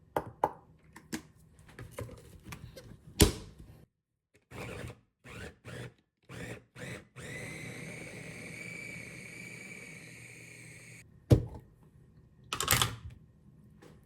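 Handling clicks and knocks, with a sharp knock about three seconds in, a few short scraping bursts, then a steady whir with a high whine for about four seconds that cuts off suddenly, followed by another sharp knock.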